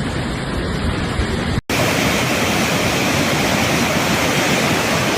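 Steady rushing of floodwater, an even roar of water. It breaks off for an instant about a second and a half in, then comes back fuller and brighter.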